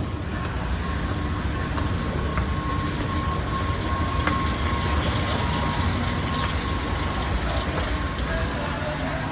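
Airport people-mover train running: a steady rumble with a thin whine and a few brief high squeals in the middle, swelling slightly and easing off again.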